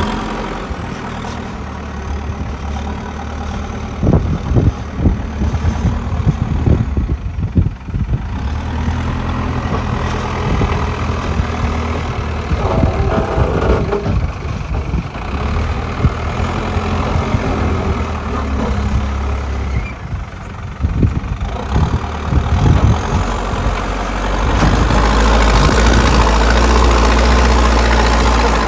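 JCB excavator's diesel engine running, with scattered sharp knocks and clatters throughout. Near the end the engine grows louder and heavier as it works harder.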